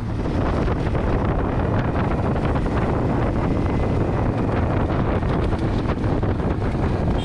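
Wind buffeting the microphone on a moving motorcycle: a loud, steady rush of noise with a low engine hum underneath.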